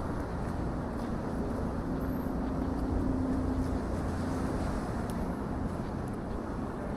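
City street traffic: a steady rumble of passing vehicles, with one engine's hum standing out for a few seconds near the middle.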